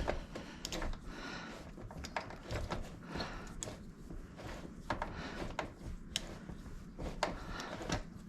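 Wrench working a nut loose on a motorcycle: irregular metallic clicks and scrapes of the tool on the nut.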